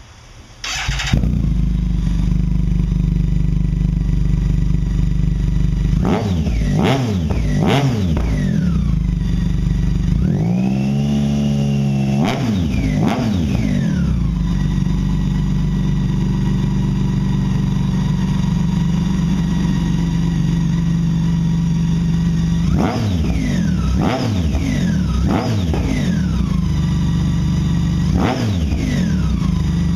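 Campagna T-Rex 16S's BMW inline-six engine, breathing through an aftermarket cat-back exhaust, fires up about a second in and settles to a steady idle. It is blipped through a few quick revs, then held up in one longer rev that rises and falls, and near the end it gets another cluster of quick throttle blips.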